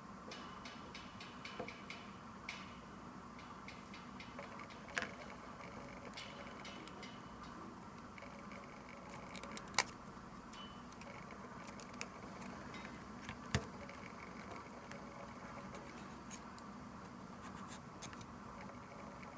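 Scattered small clicks and taps from handling tiny parts and tools while a Canon PowerShot S110 compact camera is being taken apart, with three sharper clicks, over a steady low background hum.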